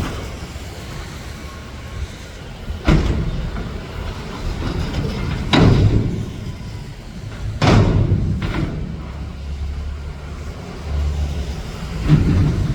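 Mack McNeilus front-loader garbage truck's diesel engine running and revving up as it works the hydraulic lift arms, with several sharp metal bangs a few seconds apart as a dumpster is shaken out into the hopper.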